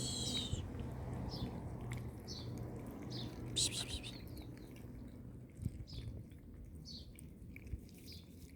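Birds chirping: short high calls, one every second or so, over a low steady hum.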